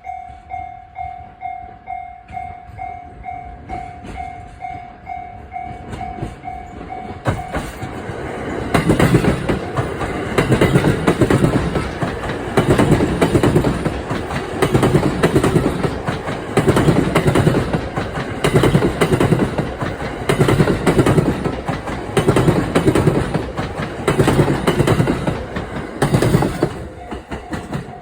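A level crossing's electronic warning bell rings with a steady pulsing ding about twice a second. About seven seconds in, a JR East E353 series Azusa limited express passes over the crossing with loud rail-joint clatter: the wheels clack over the rail joints in repeating groups about every two seconds until the train clears near the end.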